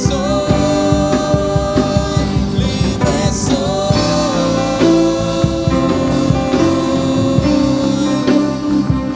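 Worship band music with guitar and a singing voice holding long notes.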